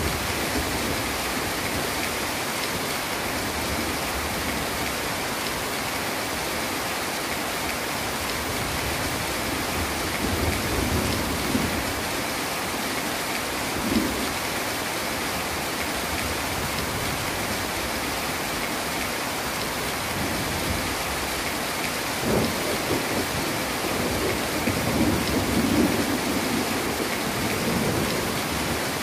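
Heavy rain falling steadily. Low rumbles of thunder swell and fade several times, starting about a third of the way in and strongest in the last third.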